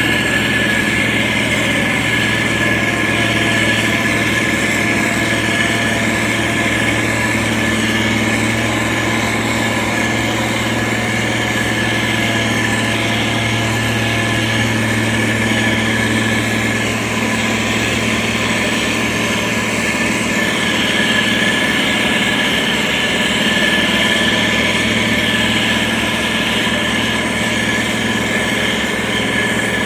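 Diesel engine of a SANY STG190C-8S motor grader running steadily, a constant engine hum that holds nearly the same pitch throughout.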